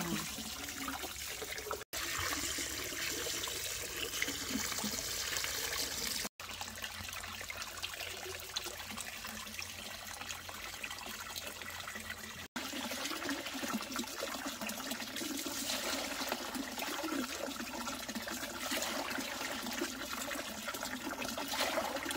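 Water running and splashing steadily, with three brief dropouts where the shots change.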